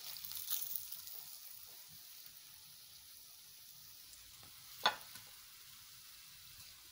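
Egg-coated minced-meat kebabs deep-frying in hot oil, a faint, steady sizzle. A few light clicks come in the first second, and one sharp clink just before five seconds in.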